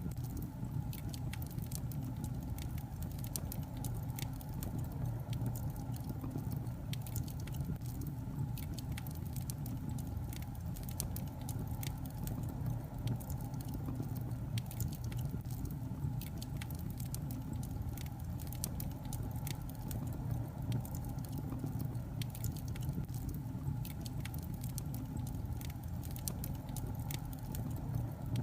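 Wood fire burning in a fireplace: irregular small crackles and pops of burning logs over a steady low rumble of flame.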